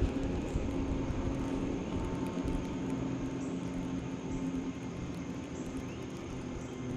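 A motor drones steadily with a low, even hum that slowly fades.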